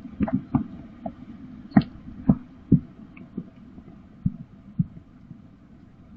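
A series of irregular, dull low thumps and knocks, close together in the first three seconds, then sparser and fainter, over a faint steady background.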